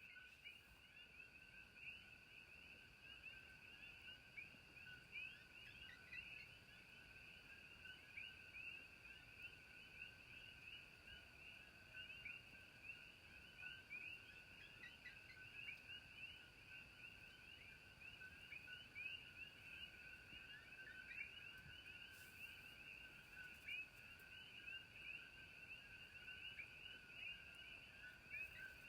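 Faint, dense chorus of small animal calls: many short, high chirps overlapping several times a second, running evenly without a break, over a faint steady high whine.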